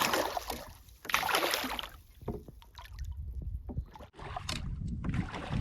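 Wind buffeting the microphone in a canoe during a fish fight: two short bursts of rushing noise in the first two seconds, then a low rumble with scattered small knocks.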